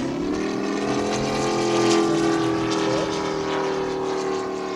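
Moki 250 five-cylinder radial engine of a quarter-scale RC AT-6 Texan running in flight, turning a large scale propeller with a steady, even drone. It grows louder to a peak about two seconds in, then eases off slightly.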